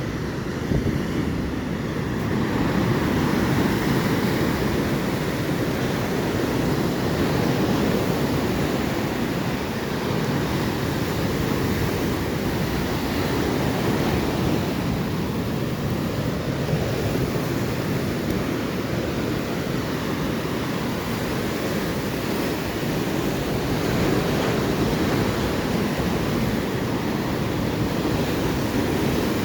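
Atlantic Ocean surf: waves breaking and washing in a continuous rush that swells and eases slowly.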